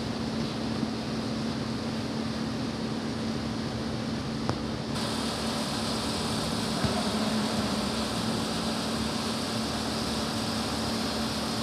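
Steady mechanical hum with a constant low tone. About five seconds in, a brighter hiss comes up and stays.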